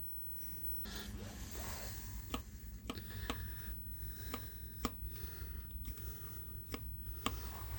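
Metal machine parts being handled and fitted back together by hand: a scattering of light clicks and taps, about eight, over a steady low hum.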